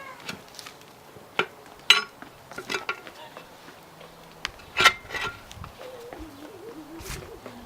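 Scattered sharp knocks and metallic clinks, the loudest about two seconds in and again near five seconds, with a faint wavering pitched sound toward the end.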